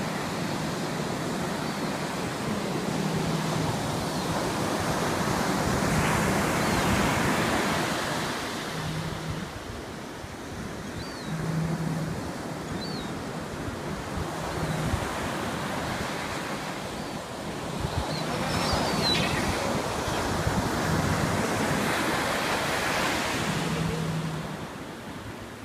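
Ocean surf breaking and washing up the shore, with wind buffeting the microphone; the wash swells twice, once near the first third and again in the latter part. A few faint short high chirps sound over it.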